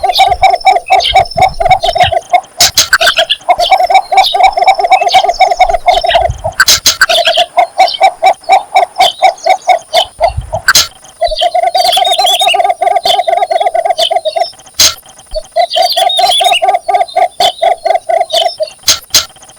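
Cinnamon bittern giving its mating advertisement call: a rapid run of low, croaking notes in bouts of about two to four seconds, repeated after short pauses. Fainter high chirps of other birds run through it.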